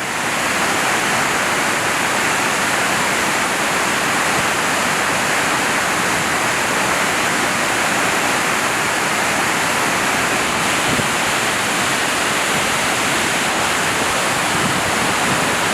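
Steady, loud rush of a large waterfall, Dynjandi, crashing down in tiers.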